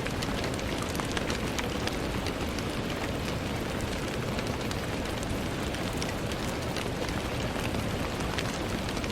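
Steady rain falling, with many small drops ticking against window glass over an even hiss.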